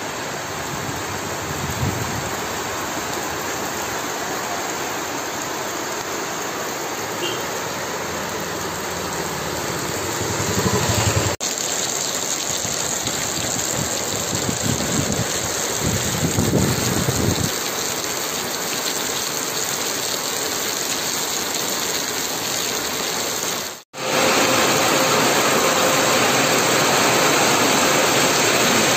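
Heavy rain falling on a road, a steady hiss with vehicles now and then passing through the wet, a rumble swelling and fading as each goes by. The rain breaks off for an instant twice and is louder over the last few seconds.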